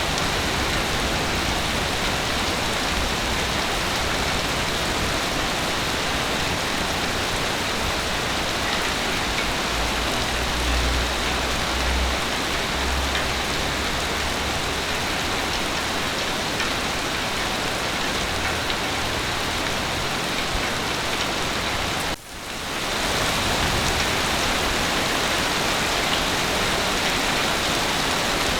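Heavy rain falling steadily, an even hiss of many drops. A low rumble comes in about a third of the way through, and the sound dips out for a split second about three-quarters of the way in.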